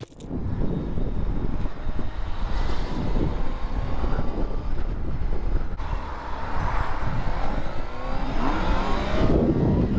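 Sportbike being ridden: the engine rises in pitch several times as it accelerates, under heavy wind buffeting on the microphone.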